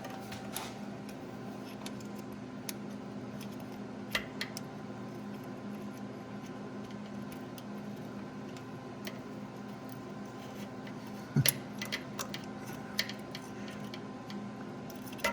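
Scattered metallic clicks and clinks of hand tools against metal, a handful spread out with a small cluster near the end, over a steady low hum.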